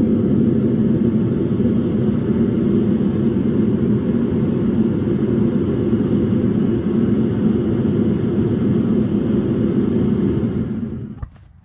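Metal-casting furnace burner running with a steady rumbling rush, then shutting down and dying away about eleven seconds in, leaving a few faint clicks.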